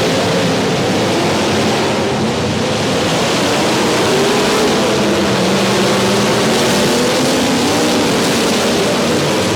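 Several demolition derby car engines revving, their pitches rising and falling over one another, over a loud, steady din.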